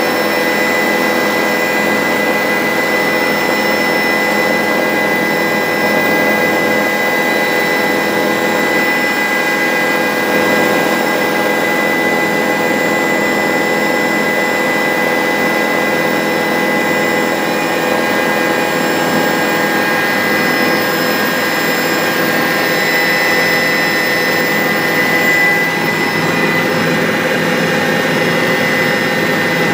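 Bell 407 helicopter in flight, its single turboshaft engine and rotors making a steady, loud whine and drone that holds level throughout.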